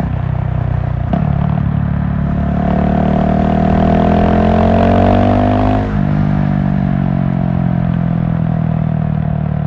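GasGas SM700 supermoto's single-cylinder engine under way. Its pitch dips briefly about a second in, climbs steadily for about four seconds as the bike accelerates, drops abruptly about six seconds in, then holds steady.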